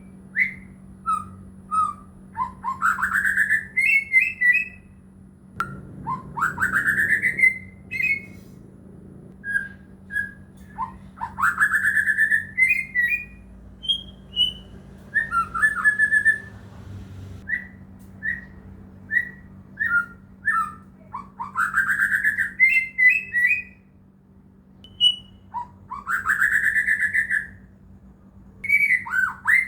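White-rumped shama (murai batu) singing: loud whistled phrases, each a long rising sweep that breaks into a quick flourish, repeated every few seconds with short clear notes in between.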